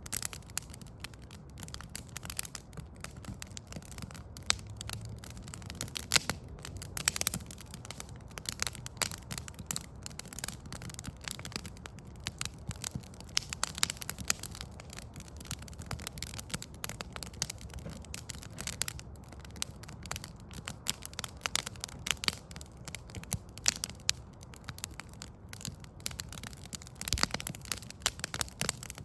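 Wood fire crackling: burning logs giving off irregular sharp pops and snaps throughout, over a low steady rumble.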